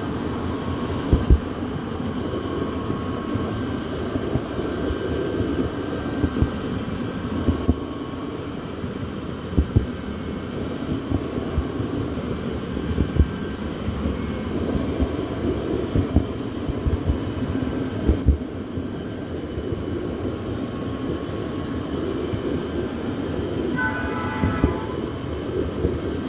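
Train running on the rails: a steady low rumble with irregular knocks, typical of wheels passing over rail joints. A brief high-pitched tone sounds near the end.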